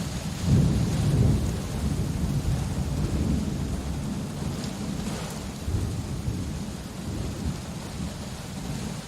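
Rain falling steadily with a roll of thunder: a low rumble swells about half a second in, loudest in the first couple of seconds, and slowly dies away under the rain.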